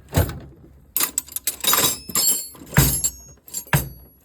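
Metal wrenches and hand tools clanking and rattling in a toolbox drawer as it is rummaged through: a quick series of sharp clinks and knocks, some ringing briefly.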